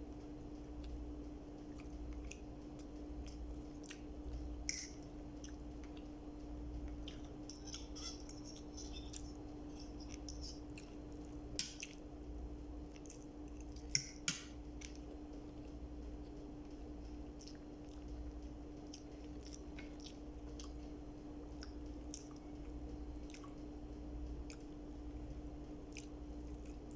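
Close-miked eating: chewing and biting with wet, smacking clicks and a few louder crunches, about 5, 8, 12 and 14 seconds in, over a steady low hum.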